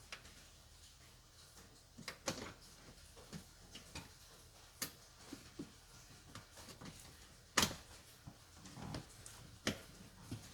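Scattered sharp clicks and knocks of hand tools and parts being handled during battery work, irregular and unrhythmic, with the loudest knock about seven and a half seconds in.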